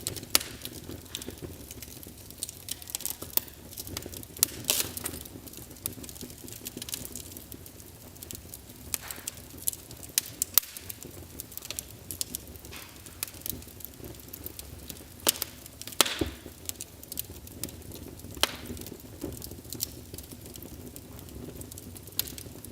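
Wood fire burning in a fireplace: irregular crackles and sharp pops over a low steady hiss, with the loudest snaps about a third of a second in and about sixteen seconds in.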